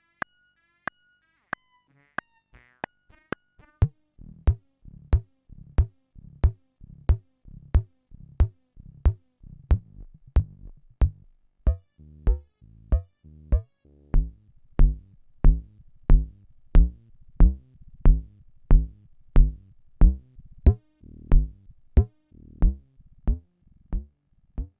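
Frog, a two-oscillator semi-modular synthesizer, playing a percussive pattern: sparse clicks at first, then from about four seconds in a steady run of low thumps, each with a sharp click and a short pitched blip, about three every two seconds. The hits grow louder about halfway through.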